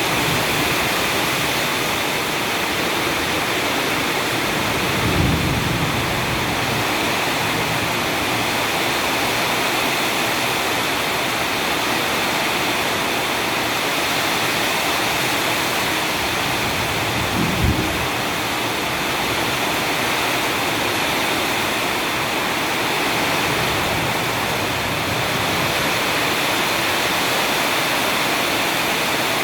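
Heavy rain pouring down steadily in a rainstorm, with two brief low thumps, about five seconds in and again near eighteen seconds.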